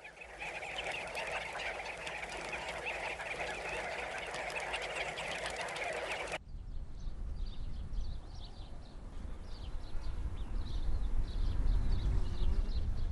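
A flock of sandgrouse calling at a waterhole, a dense chatter of many overlapping calls. It cuts off abruptly about six seconds in. After that a low wind-like rumble remains, with faint, scattered high chirps.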